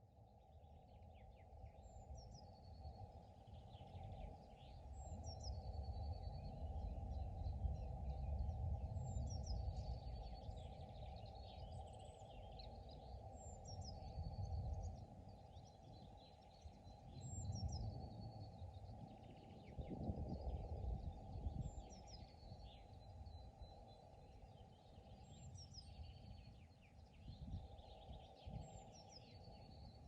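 A songbird repeats the same short song about every four seconds, eight times. Each song is a quick phrase falling steeply in pitch and ending in a high held trill. Under it runs a faint low rumbling noise that swells and fades.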